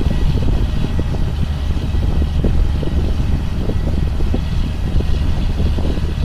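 2005 John Deere sprayer running through the field: a steady low engine drone with irregular rattles and knocks from the machine moving over the ground.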